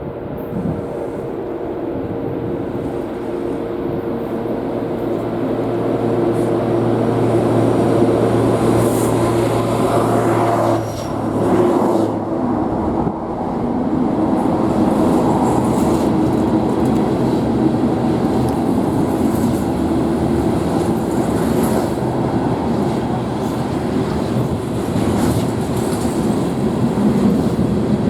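Manifest freight train passing: the diesel locomotives' engines drone steadily at first, and from about halfway the freight cars roll by with a steady rumble and wheel clatter.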